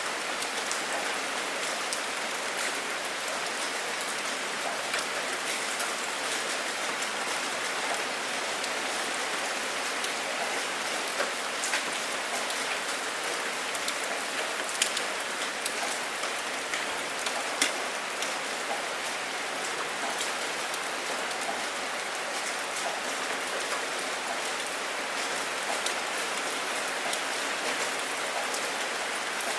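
Steady rain falling, an even hiss with scattered drops ticking through it and a few sharper, louder drop hits.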